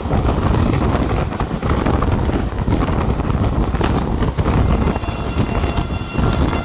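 Wind buffeting the microphone over the steady rumble of a passenger train coach running at speed, heard from its open doorway.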